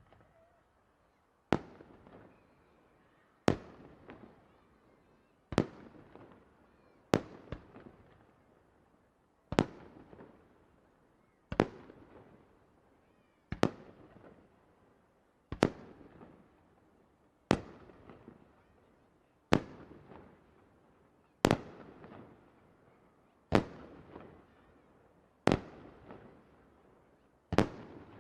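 Aerial firework shells bursting in a steady sequence, one sharp bang about every two seconds, each followed by a fading tail. About seven seconds in, two bursts come close together.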